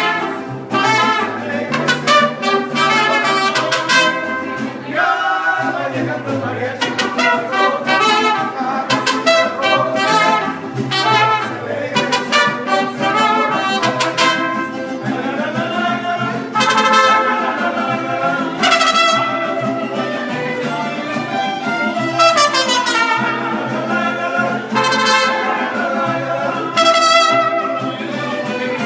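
Mariachi music with trumpets carrying the melody over a steady bass and rhythm accompaniment, with violins also in the ensemble.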